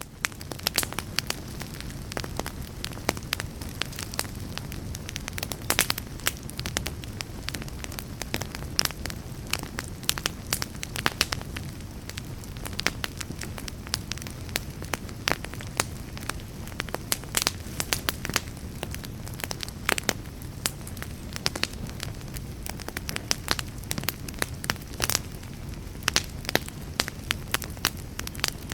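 Fire crackling in a fireplace: frequent sharp pops and snaps at irregular intervals over a steady low rumble of flames.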